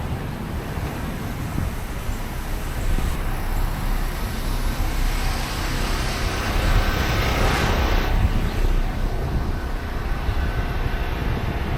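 City street traffic noise, with a steady rumble and a vehicle hissing past about six to eight seconds in.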